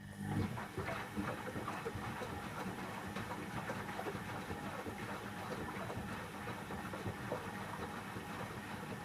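Candy Aquamatic 1000T compact washing machine running its heated wash with no load: the motor turning the drum, a steady running hum with a busy rattle of small clicks, starting abruptly.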